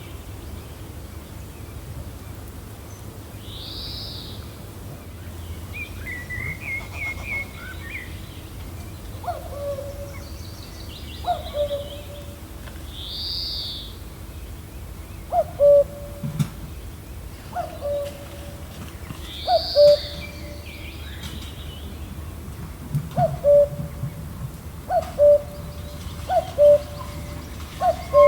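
Birds calling over a steady low wind. A short, low call with a quick falling start repeats every one to two seconds from about a third of the way in and is the loudest sound. Higher chirps and a few high whistled notes come several seconds apart.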